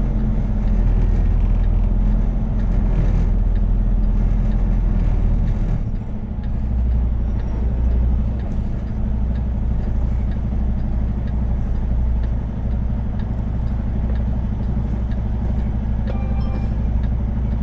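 Semi truck's diesel engine running at low speed while the truck reverses, its note shifting about six seconds in.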